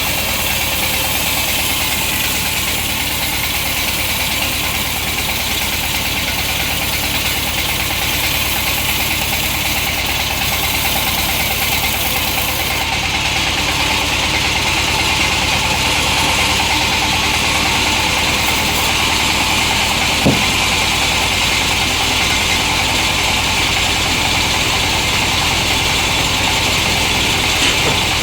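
Two-stroke chainsaw running steadily at a constant pitch and loudness, with a single sharp click about two-thirds of the way through.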